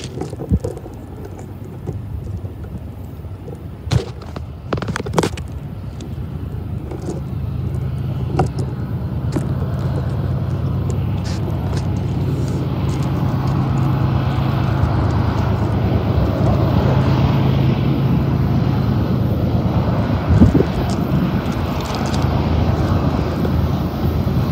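Diesel locomotives of a freight train approaching, their engines a steady low rumble that grows louder through the second half. A few sharp knocks sound about four and five seconds in.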